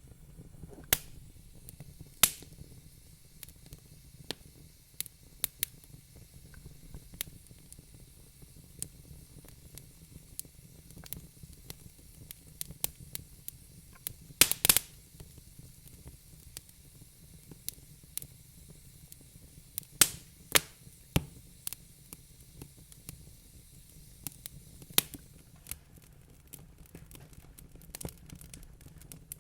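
Wood fire crackling in a fireplace: irregular sharp pops and snaps over a low steady background noise, with the loudest cluster of pops about halfway through.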